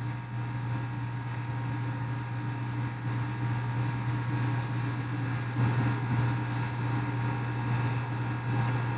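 Steady low mechanical hum, unchanging throughout, with a faint brief rise about six seconds in.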